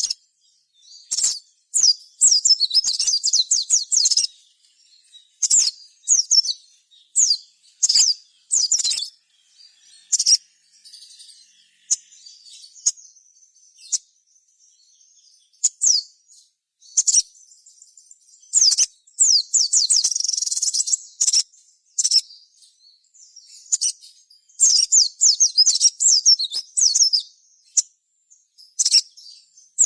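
Sogon (sogok ontong), a small sunbird, singing loudly in bursts of high, sharp chirps broken by several fast trills, with short pauses between phrases. This is an excited-song recording, the kind played as a lure to make other sogons call and answer.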